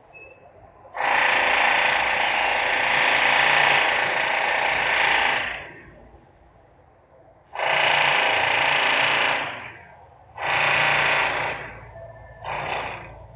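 Loud, harsh bursts of industrial power-tool or machinery noise that start and stop abruptly: one long burst of about five seconds, then three shorter ones, each briefer than the last.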